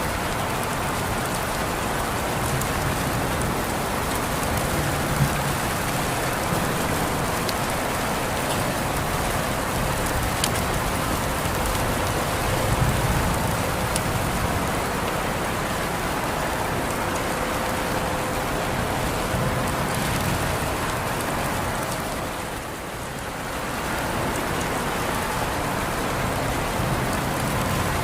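Steady rain falling on surfaces, an even hiss with scattered sharp drop ticks. It briefly eases and comes back about three-quarters of the way through.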